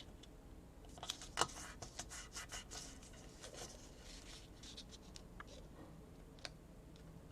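Faint rustling and scraping of paper being folded and creased by hand, with a few sharp ticks, busiest in the first three seconds.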